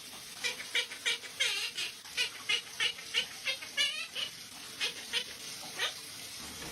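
Parrot giving a quick run of short, sharp calls, about three a second, with one warbling call about four seconds in.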